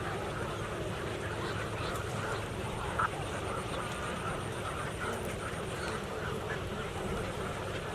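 Many birds calling at once in a sanctuary colony, with short calls overlapping all through, over a steady low rumble. A brief click sounds about three seconds in.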